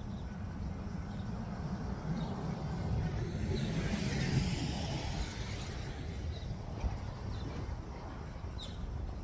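A vehicle passing by over a steady low rumble: its sound swells over a couple of seconds, peaks about four seconds in, then fades.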